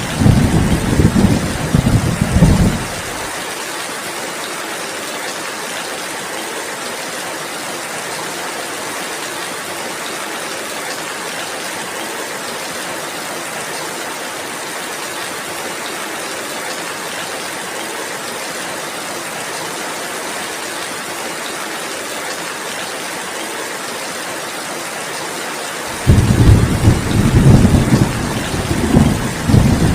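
Steady rainfall, an even hiss. A low rumble of thunder dies away about three seconds in, and another rumble starts suddenly near the end.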